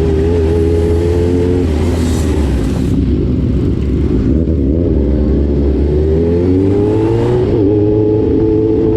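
Motorcycle engine running under way: a steady note that eases off in the middle, then revs up, climbing in pitch for about a second and a half before holding a steady higher note near the end.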